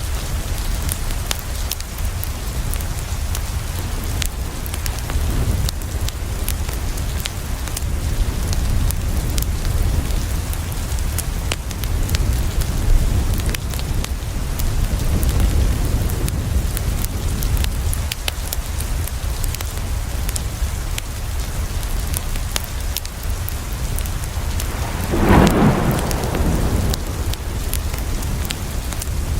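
Steady rain falling, with many small drop ticks and a low, even rumble underneath. Near the end, a roll of thunder swells up and fades over about a second and a half.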